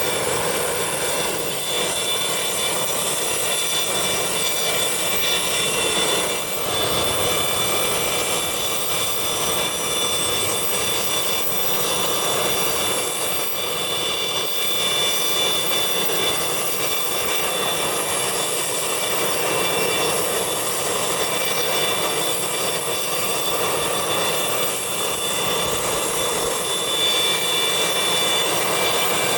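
Jet engines of a business jet running steadily: an even rush with a steady high-pitched whine that holds unchanged throughout.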